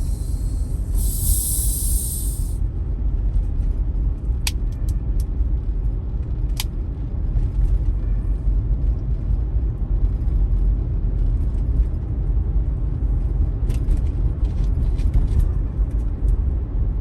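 A vehicle driving, heard from inside the cabin: a steady low rumble of engine and road noise. There is a brief hiss about a second in and two sharp clicks a couple of seconds apart.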